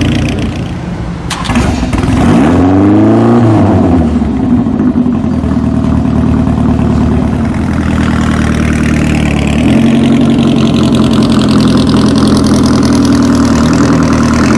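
Bertone Stratos Zero's mid-mounted Lancia four-cylinder V4 engine running: a quick blip of the throttle, its note rising and falling about two to four seconds in, then settling to a steady low-speed run that grows a little louder from about ten seconds in as the car moves off.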